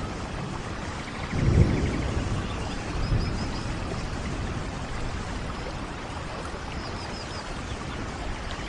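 Steady rain in a rainforest, an even wash of falling water, with a brief low rumble about a second and a half in.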